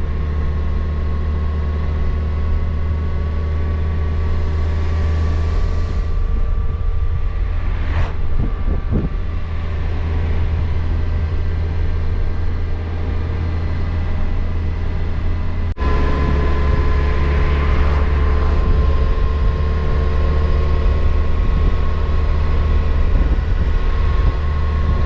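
Kawasaki Versys motorcycle engine running steadily at cruising speed, with a strong low rumble beneath the engine note. About 16 seconds in the sound changes abruptly and then runs a little louder.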